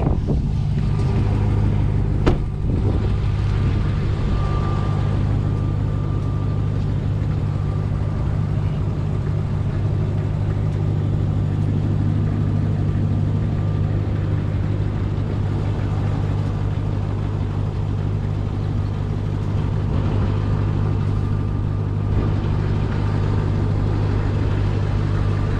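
2021 Ram 1500 TRX's supercharged 6.2-litre Hemi V8 running at a steady, unchanging pitch with a constant low drone. A single sharp click about two seconds in.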